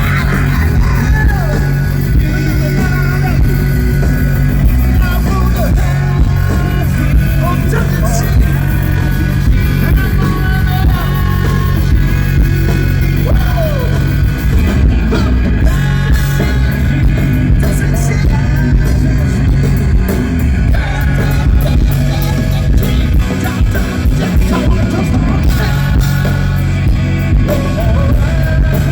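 Live rock band playing loud: electric guitar over bass and drums, with gliding lead-guitar lines.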